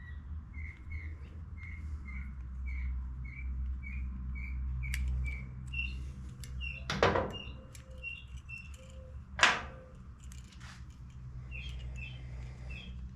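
A small bird chirping in a rapid, even series of short notes, about three a second, over a low steady hum. Two sharp knocks stand out, one a little past the middle and another a couple of seconds later.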